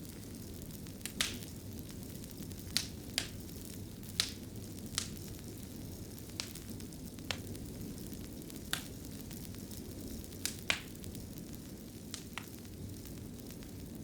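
Wood fire crackling in a fireplace: a steady low rush of flames with sharp pops at irregular moments, about one a second.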